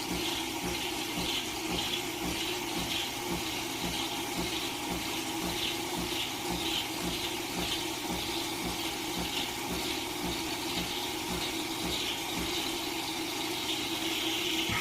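Espresso machine pump running and pushing water through, with an even pulsing about twice a second, then cutting off abruptly.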